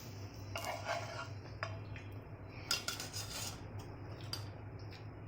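Spatula clinking and scraping against a tawa and plate as fried bread pakoras are lifted off, in several separate knocks and scrapes.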